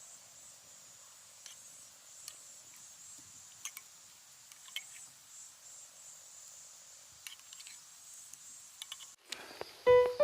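Faint steady high-pitched insect chirring, likely crickets, with scattered sharp clicks and pops. The sound cuts off about nine seconds in, and piano music starts near the end.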